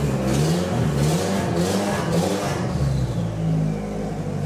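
Nissan 240SX drift car's engine revving as the car pulls out of the garage: the revs rise and fall several times, then settle to a steadier note about three seconds in.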